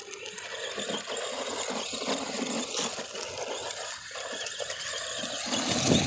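Electric RC monster truck, an ARRMA Granite Voltage with its 20T 540 motor, running off-road: a whirring motor and drivetrain with rattly clicks as it crosses rough ground, growing louder near the end.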